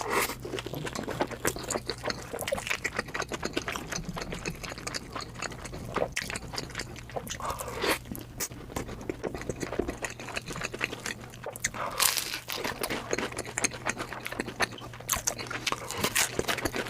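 Close-miked eating sounds: a person chewing and biting food, with a dense run of irregular wet clicks, smacks and crunches over a steady low hum.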